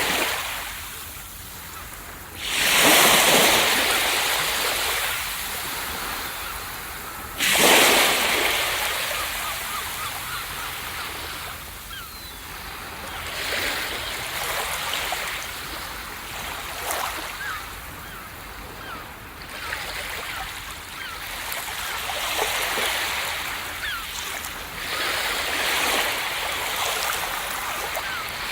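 Ocean waves breaking on a beach. Two big waves crash about two and a half and seven and a half seconds in, each fading into a long wash of surf, then smaller waves roll in every few seconds.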